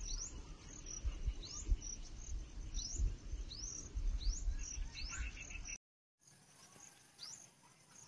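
A bird calling a short, high, rising note over and over, about once a second, with wind rumbling on the microphone. The sound drops out briefly about six seconds in, then the same call goes on more quietly.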